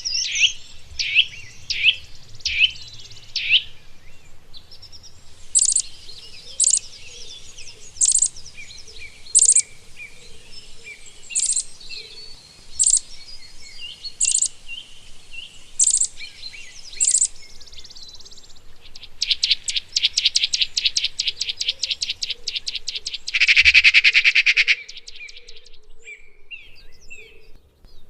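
Wild songbirds calling and singing: a quick series of down-slurred whistles, then sharp high chirps about once a second over a steady high hiss. A fast trill follows, and a loud buzzy trill comes near the end.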